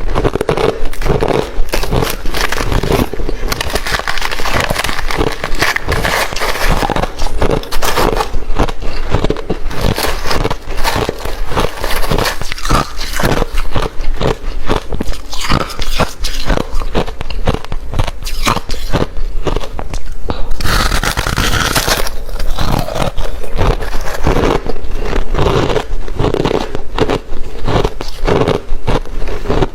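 Hard refrozen crushed ice being bitten and chewed close to the microphone, with loud, dense crunching and cracking throughout.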